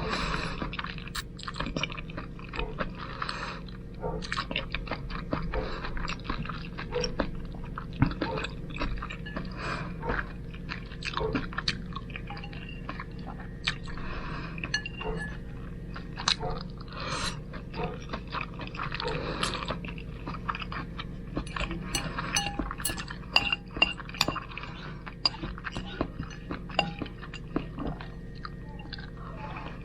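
Close-up eating sounds of spaghetti being chewed, with many short wet mouth clicks and occasional clinks of a utensil against the dish.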